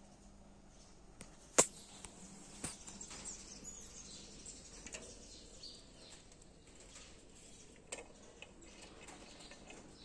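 Faint, scattered bird chirps, with a single sharp knock about one and a half seconds in and a couple of smaller knocks later.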